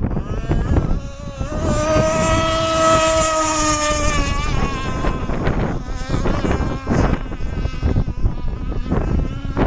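Radio-controlled racing boat engine running at high revs, a buzzing whine that bends in pitch as the boat passes, loudest between about two and four and a half seconds in. Wind blows on the microphone throughout.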